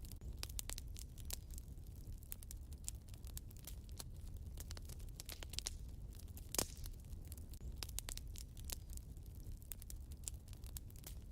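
Wood fire crackling in a fireplace, with frequent small snaps and one loud pop about six and a half seconds in, over a steady low rumble.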